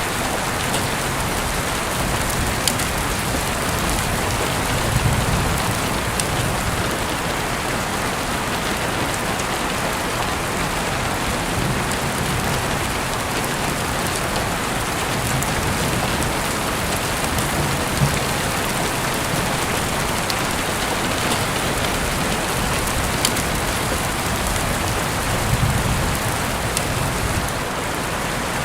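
Heavy rain falling steadily in a dense, even hiss, with a few sharper drop ticks.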